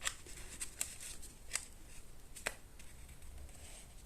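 Card stock being handled while a box is glued together: four faint, sharp clicks and taps about a second apart.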